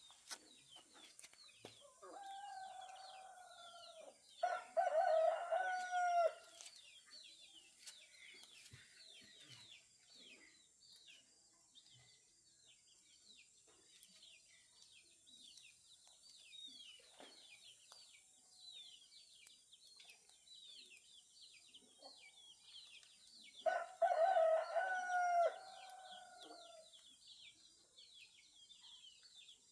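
A rooster crows twice, loudly, a few seconds in and again about 24 seconds in, with a fainter crow just before the first. Small birds chirp constantly throughout over a steady high hiss.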